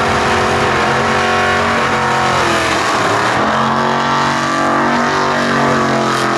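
Drag-racing muscle car engine running loud at full throttle. Its pitch breaks about three seconds in, then holds steady again.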